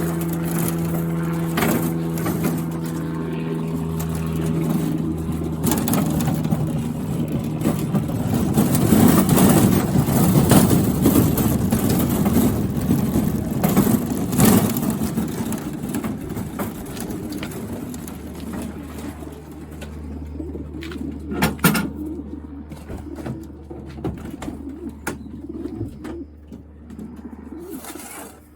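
Racing pigeons cooing amid scattered bumps and clicks, loudest about a third of the way in. A steady engine-like hum runs underneath at first and stops several seconds in.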